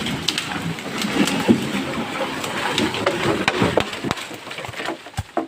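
A felled albasia tree crashing down through branches: rapid snapping and cracking of wood and a rush of leaves, dying away after about four seconds.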